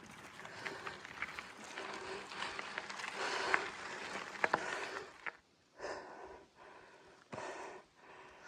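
A cyclist breathing hard on a steep climb, in swelling and fading breaths, with a few sharp clicks from the bike on the dirt road.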